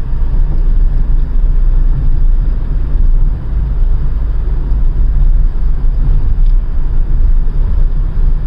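Steady low rumble of road and engine noise from a car driving through a tunnel, heard from inside the moving car.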